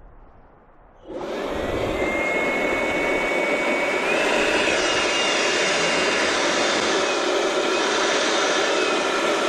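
Electric balloon inflator switching on about a second in and running steadily. Its motor whine rises as it spins up, then holds high and wavers.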